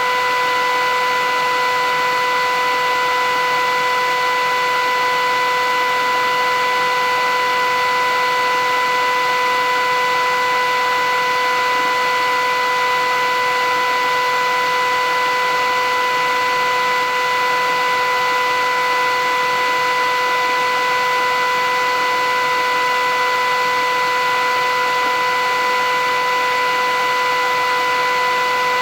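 Philips 8000 series vacuum cleaner running steadily: a constant whine over a rushing air noise, holding the same pitch and level throughout.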